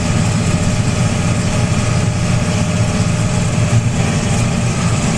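Tractor engine running steadily while the tractor drives along, heard from on board.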